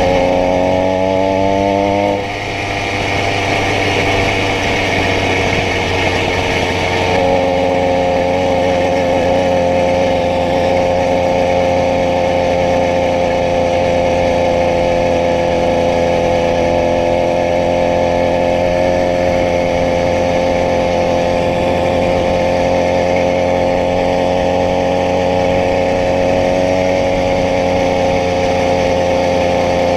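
80cc bicycle conversion engine running. Its pitch rises over the first two seconds, drops sharply, then wavers before settling into a steady run from about seven seconds in.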